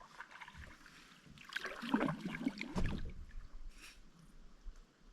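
A paddle dipping and pulling through lake water, with splashing and dripping that builds about a second and a half in and dies away by about three seconds.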